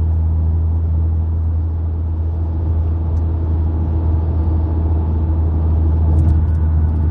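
Hemi V8 car engine running steadily at light highway cruise, about 1,600 rpm, heard from inside the cabin as an even low hum with road noise.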